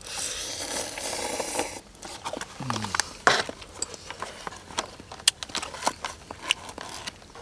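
Rustling for about two seconds, then a run of small sharp clicks and knocks, as of gear or packaging being handled.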